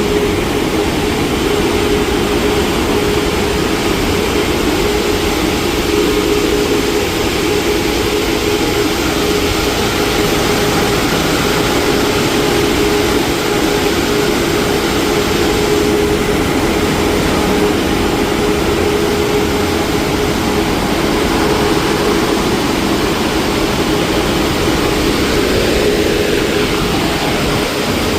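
Mark VII AquaJet XT car wash machinery running: a loud, steady roar with a constant hum underneath.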